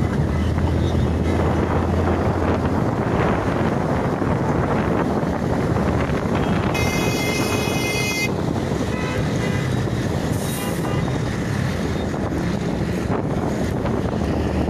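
Steady road and wind noise from a moving vehicle travelling along a highway. A horn sounds once, for about a second and a half, midway through.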